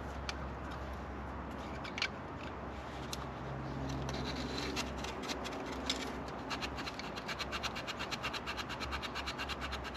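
A small file rasped back and forth across the contact faces of a car distributor's ignition points, dressing the worn contacts. After a few scattered clicks of handling, quick even strokes start about six and a half seconds in, about five a second.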